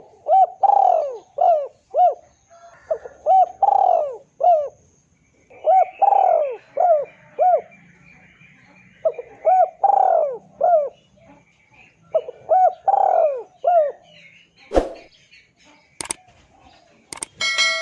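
Spotted dove cooing: about five phrases of several arching coos each, with short pauses between them, over faint chirping of small birds. Near the end come a few sharp clicks and a brief steady tone.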